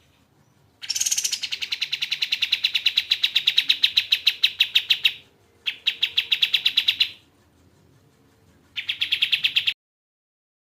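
Kapas tembak bird singing: fast trills of evenly repeated notes, about nine a second, in three runs: one of about four seconds, then two shorter ones.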